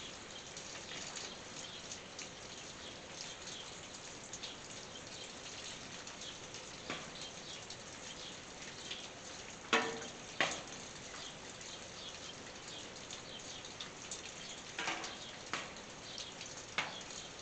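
Quiet rain on a tin roof: a steady patter of many small drops, with a pair of louder single drop hits about ten seconds in and a few more near the end.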